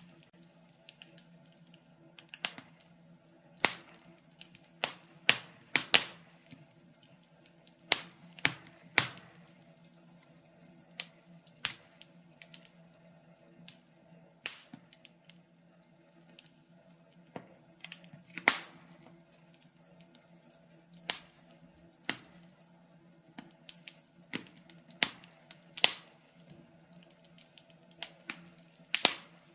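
Wood fire in a fireplace crackling: irregular sharp pops and snaps, some in quick clusters and others a second or more apart, over a faint steady low hum.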